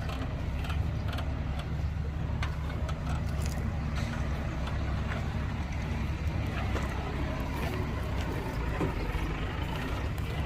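Heavy diesel construction machinery running steadily, a low engine rumble with scattered light clanks and clicks over it.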